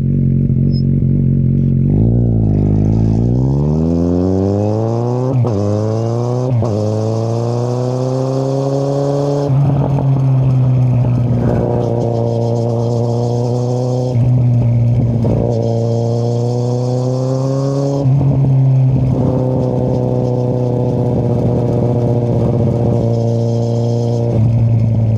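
2013 Kawasaki Z800's inline-four engine, breathing through an Akrapovic exhaust with the dB killer removed, pulling away and accelerating up through the gears. The pitch climbs and drops back at each upshift, then the bike runs at a steadier speed, with one more rise and shift near the end.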